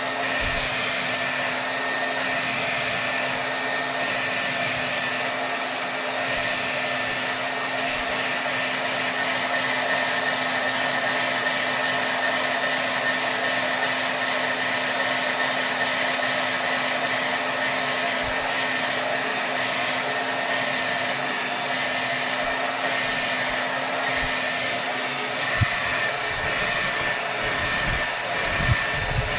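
Hair dryer running steadily at full power, a constant rush of air with a steady motor hum. A few soft low thumps come near the end.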